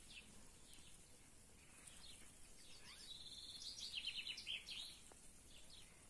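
Faint songbirds chirping, with a rapid trill about three seconds in followed by a run of quick chirps.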